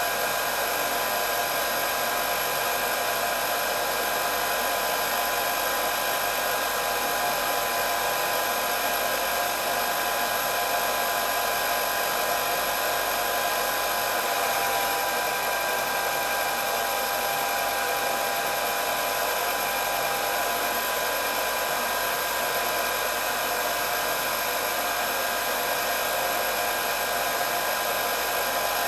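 Hair dryer running continuously: a steady blowing hiss with a constant high whine from its motor and fan.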